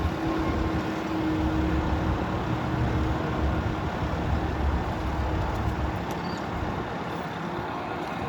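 Bobcat T64 compact track loader's diesel engine running steadily, a low rumble with a held tone above it.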